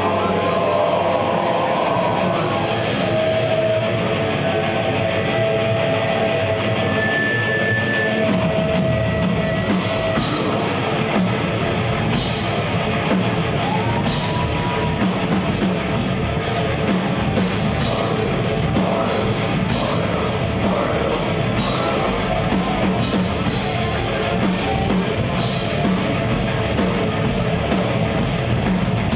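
Death metal band playing live, with heavy guitars and a drum kit. Held guitar notes open the passage, and a steady beat of cymbal strokes comes in about ten seconds in.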